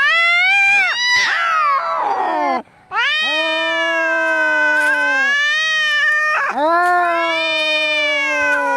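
Angry domestic cats caterwauling: long, drawn-out yowls that rise and fall in pitch, typical of a cat fight. There are about three long wails, with a short break about three seconds in.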